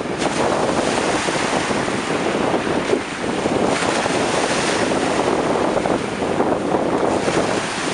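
Black Sea surf breaking and washing on the shore, with a surge of spray about four seconds in, and wind buffeting the microphone.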